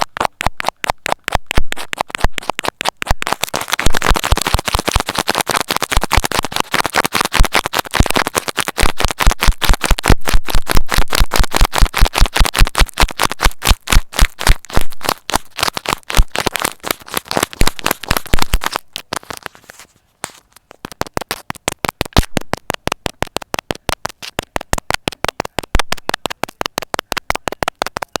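ASMR needle sounds: a needle pushed again and again through a springy material, giving a rapid series of sharp, crisp clicks at about five a second. The clicks pause briefly about two-thirds of the way through, then carry on.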